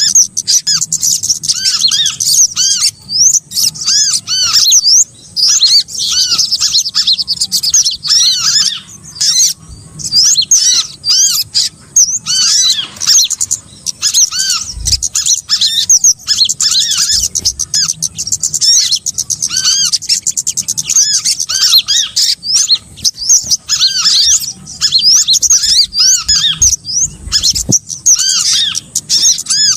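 Small birds calling in a bird-lure recording: a dense, continuous chatter of short, high chirps and squeaky arched notes, several birds overlapping.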